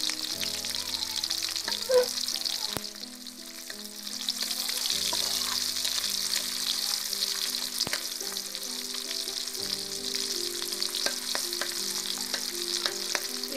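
Oil sizzling in a karahi as sliced onion, garlic and green chilli fry, stirred with a metal spatula that clicks against the pan a few times. The sizzle dips for about a second, about three seconds in.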